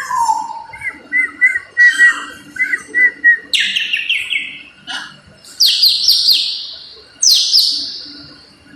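Parrot making a string of whistles and chirps: a falling whistle, a quick run of short chirps, then several loud descending sweeps.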